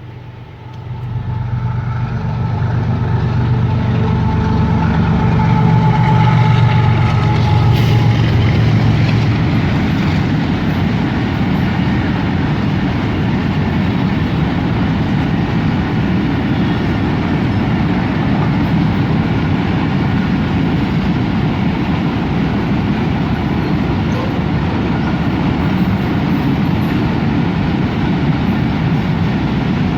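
Pakistan Railways GEU-40 diesel locomotive passing close by, its engine drone strong for the first several seconds. It then gives way to the steady rumble and clatter of oil tank wagons rolling past on the rails.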